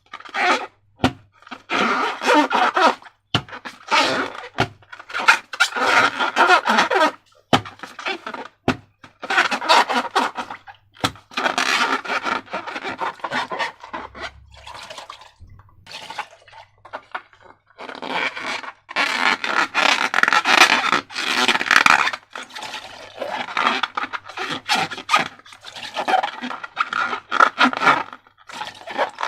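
Wet slime being squeezed and worked by hand, squelching in irregular bursts of a second or two, with a few sharp clicks between them.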